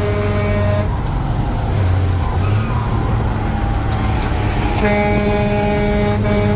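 A vehicle horn sounds twice: once ending under a second in, and again from about five seconds in. Under it a truck engine runs steadily.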